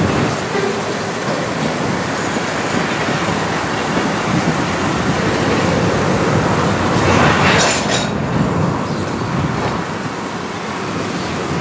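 Freight train's covered hopper cars rolling slowly past on the rails, a steady rumble with wheel clatter, and a brief high metallic screech about seven seconds in.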